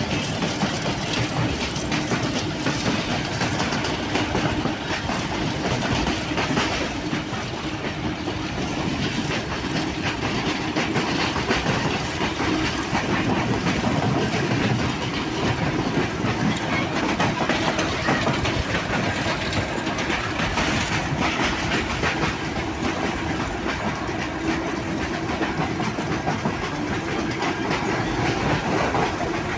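Passenger train running at speed, a steady rumble with the clatter of wheels on the rails and a faint steady hum underneath.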